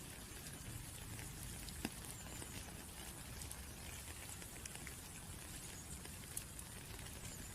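Rain falling: a steady hiss dotted with sharp taps of individual drops, one louder drop about two seconds in.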